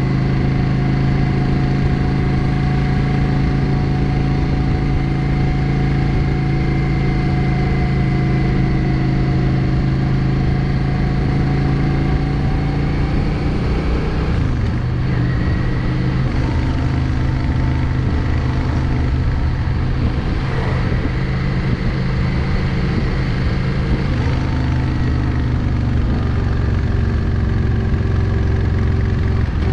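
Yamaha XVS650 Drag Star's air-cooled 649 cc V-twin running on the road at steady speed. The engine note drops about halfway through and shifts up and down a few more times later, as the revs change.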